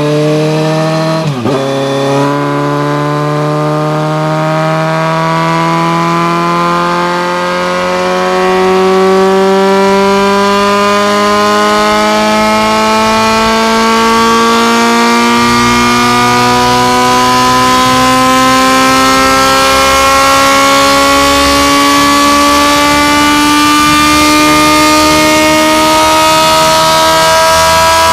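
Kawasaki Z900's inline-four engine through an SC-Project aftermarket exhaust, running loud under load with its pitch rising slowly and steadily as the revs climb. About a second in, the revs dip sharply and then pick up again.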